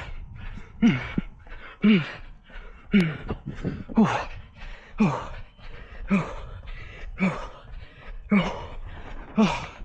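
A runner's laboured breathing: a hard, voiced exhale about once a second, each one falling in pitch like a groaning gasp, the panting of someone near exhaustion late in a 5 km run.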